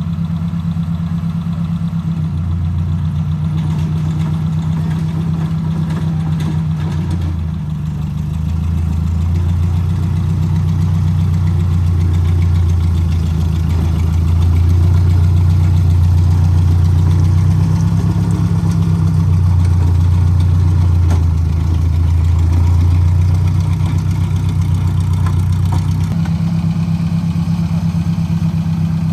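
Tractor engine running, a deep steady drone whose note shifts several times, dipping and rising again about a quarter of the way through and swelling and easing in the middle.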